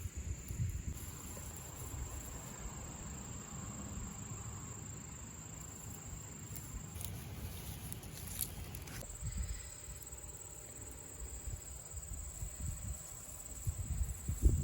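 Insects trilling in one steady high note that fades for a couple of seconds past the middle, over a low rumble on the microphone.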